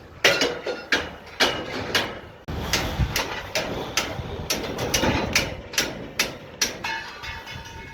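Hammer blows landing repeatedly at an uneven pace, about two to three strikes a second, over a steady mechanical noise that comes in about two and a half seconds in.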